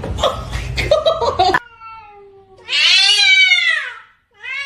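A cat meowing: one long, loud meow that rises and then falls in pitch about halfway through, and a second meow starting near the end. Before that there is about a second and a half of clicks, knocks and rustling noise.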